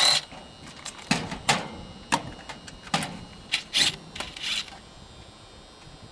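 Irregular clicks and short scrapes of wires and parts being handled, several in quick succession, stopping shortly before the end.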